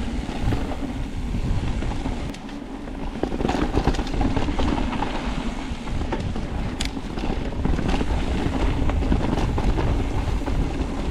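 Wind buffeting an action camera's microphone as a mountain bike rolls along singletrack, a steady low rumble with tyre noise and scattered short clicks and rattles from the bike on the trail.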